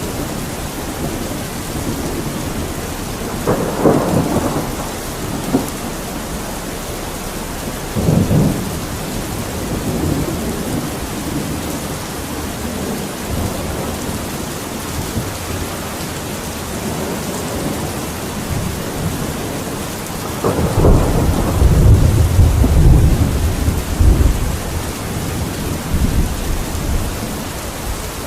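Steady rain falling, with low rumbles rising over it: short ones about 4 and 8 seconds in, and a longer, louder one starting about 20 seconds in that lasts several seconds.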